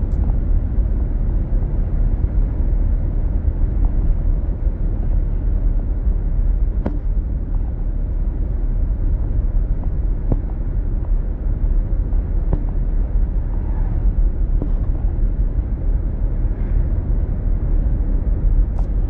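Car driving at steady speed, heard from inside the cabin: a constant low rumble of road and engine noise, with a few faint ticks.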